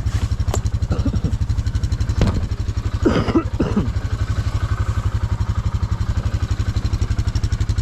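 ATV engine idling with an even, steady low thump.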